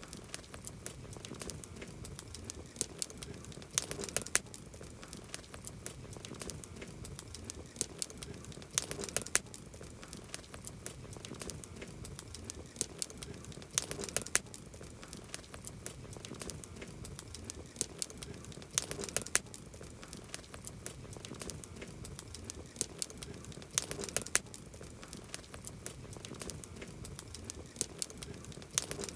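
Wood campfire crackling steadily, with sharp pops and snaps; a cluster of louder pops comes about every five seconds.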